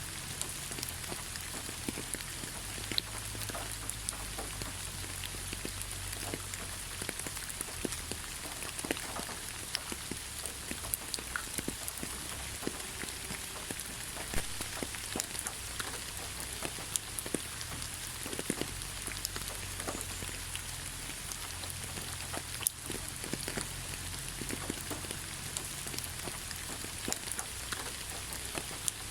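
Steady rain falling on leaves, a constant hiss with many separate drops pattering irregularly on top.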